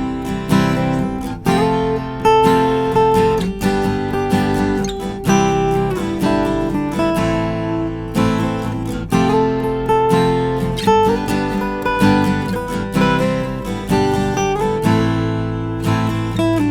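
Cat's Eyes CE-25 acoustic guitar, spruce top with mahogany back and sides, strummed in chords that change every second or so.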